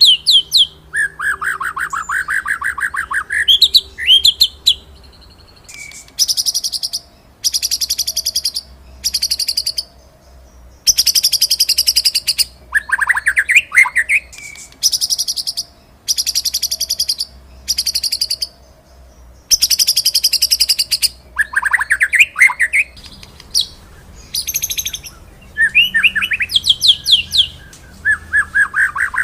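White-rumped shama (murai batu) singing a loud, varied song of rapid rolling trills and sharp high notes. The bursts come one after another with short gaps, mixed with lower sweeping whistles.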